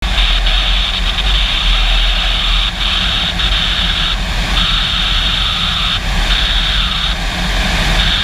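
A Yamaha R3 motorcycle ridden at speed: a steady rush of wind noise over the microphone with the engine running underneath, loud and without clear rises or falls in pitch.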